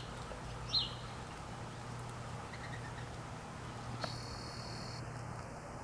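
Small songbird giving two short, high chirps near the start, then a few fainter chirps, over a steady low background hum.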